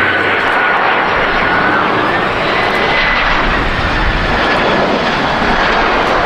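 Jet airliner's engines running loud and steady as it passes close, with a high whine that shifts in pitch over a deep rumble.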